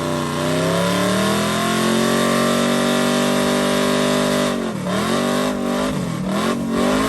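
Truck engine revved hard and held at high revs, as in a burnout, over a steady hiss. Near the end the revs dip and climb back four times in quick succession.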